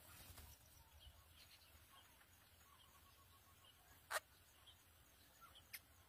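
Faint, scattered bird chirps with a quick run of soft repeated pips a little past two seconds in. A single sharp click about four seconds in is the loudest sound, with a smaller click near the end.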